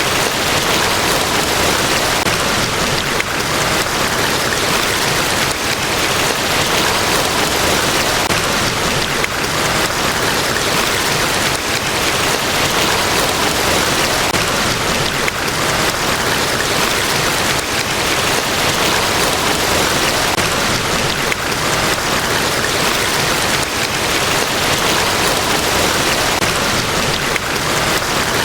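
Large waterfall pouring, a steady dense rush of falling water with no change.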